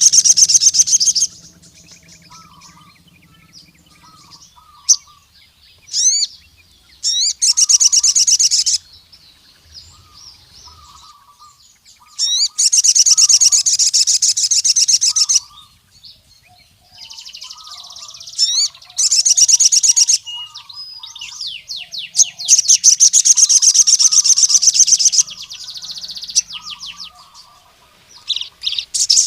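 A sogon sunbird singing in loud, rapid high-pitched trills of one to three seconds, several times over, with softer short chirps and a few quick rising notes in between.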